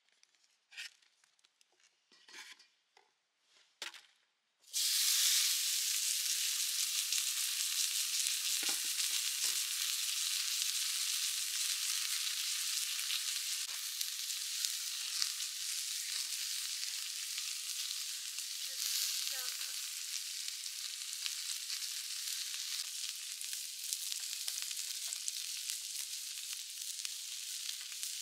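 Steak frying in a hot pan: a few light clinks, then about five seconds in a loud sizzle starts suddenly as the meat goes into the pan, and keeps going steadily.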